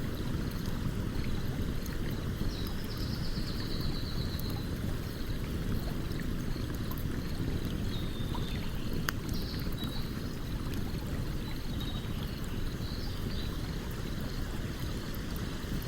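Stream water rushing steadily with a campfire crackling over it, giving an occasional sharp pop, the plainest about nine seconds in. A short high trill sounds a few seconds in, with fainter chirps later.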